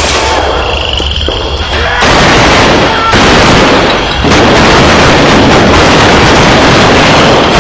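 Battle sounds of gunfire and explosions, recorded so loud that they blur into a constant overloaded din, which jumps up about two seconds in.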